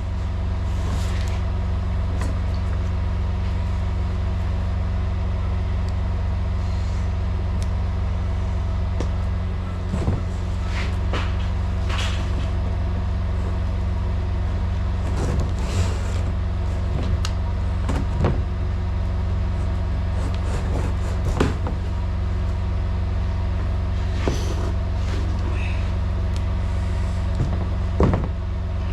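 Semi truck's diesel engine idling steadily, a constant low hum, with scattered clicks and taps of hand work over it.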